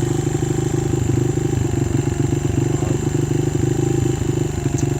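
Honda XR100 dirt bike's single-cylinder four-stroke engine running steadily at idle, a fast even putter with no revving.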